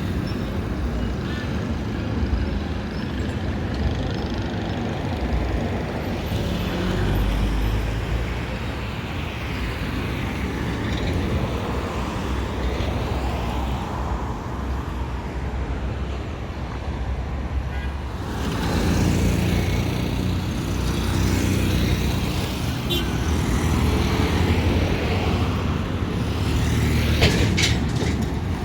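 Street traffic: motor vehicles passing with a steady engine and tyre rumble, louder from about two-thirds of the way through, with a few short sharp sounds near the end.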